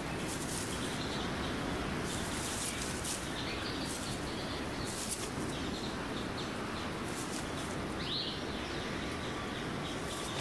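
Scattered faint bird chirps over a steady outdoor background hiss, with one short rising call about eight seconds in.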